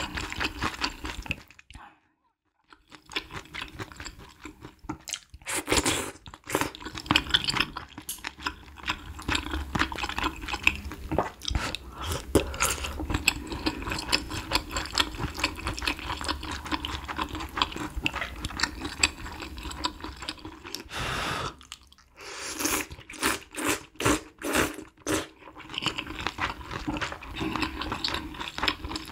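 Close-miked eating of malatang spicy hot pot: wet chewing, crunching and biting of soup-soaked ingredients such as fish balls and tofu skin. There is a brief silent gap about two seconds in.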